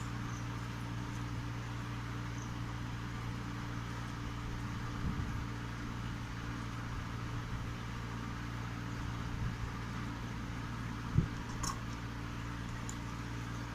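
A steady low machine hum with a faint hiss over it, broken by a few soft knocks and a short sharp click about eleven seconds in.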